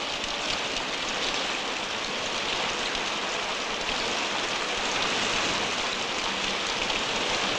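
Steady rain falling, an even hiss of rain with no other sound standing out.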